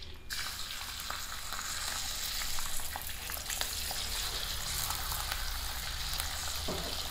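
Frog pieces dropped into hot oil in a wok, sizzling and crackling as they deep-fry. The sizzle starts suddenly as the first pieces hit the oil and then holds as a dense hiss full of small pops.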